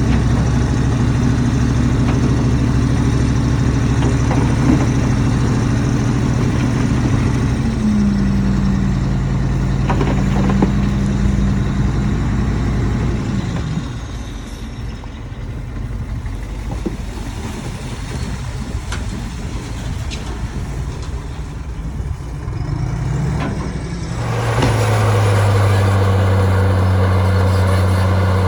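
Heavy diesel earthmoving machinery running, a bulldozer and dump trucks at work. The engine note shifts, then drops and falls in pitch about halfway through. Near the end, after an abrupt change, a different engine settles into a steady low drone.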